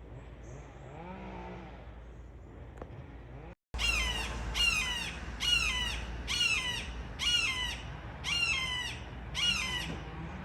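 A bird calling loudly over and over, about seven harsh, downward-slurred calls a little under a second apart, starting a few seconds in. It is the bird that calls loudly in the early morning hours.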